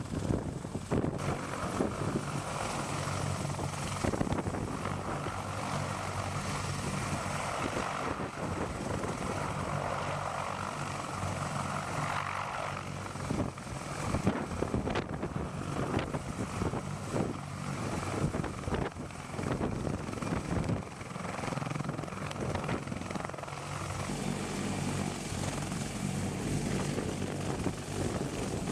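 CH-53K King Stallion heavy-lift helicopter running, its rotors and turbine engines making a steady low hum.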